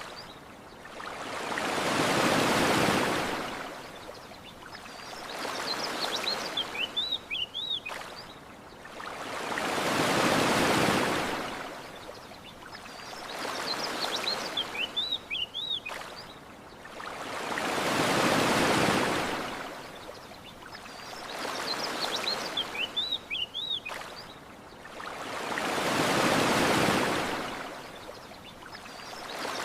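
Ocean waves washing onto a beach in slow swells, a large one about every eight seconds with a smaller one between, and short high bird chirps in the lulls. The pattern repeats exactly, a looped ambience track.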